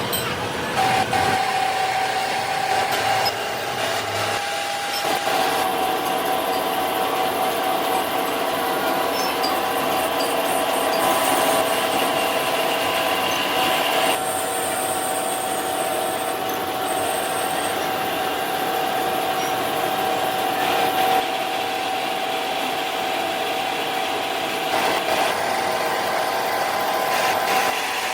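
A metalworking machine running steadily, cutting or grinding metal, with a steady whine over a constant scraping noise.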